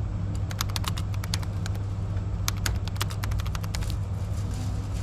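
VR Sm3 Pendolino high-speed train running slowly with a steady low rumble. A quick, uneven run of sharp clicks comes through the first four seconds.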